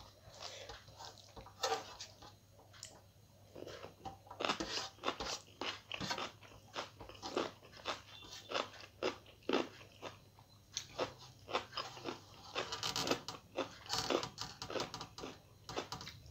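Close-up eating sounds: chewing and crunching of food in the mouth, a dense, irregular run of short crackly clicks and crunches.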